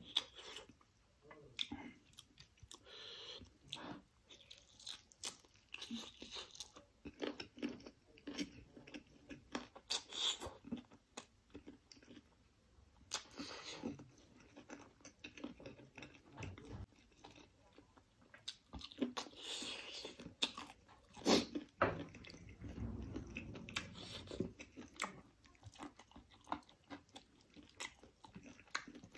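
Close-miked chewing and biting of roasted chicken curry eaten by hand. It is a steady run of short mouth clicks and smacks, with louder bites now and then.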